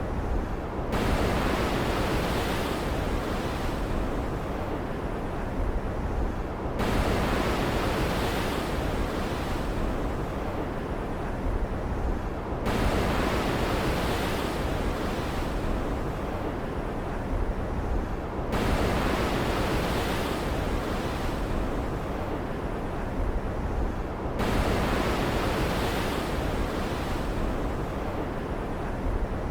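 Steady ocean surf ambience of a stormy sea, a continuous rushing hiss. Every six seconds or so the hiss abruptly turns brighter, then duller again.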